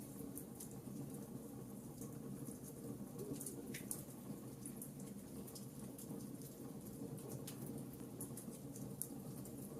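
Fireplace fire crackling: a steady low rumble of flames with irregular small pops and snaps, and one louder pop about four seconds in.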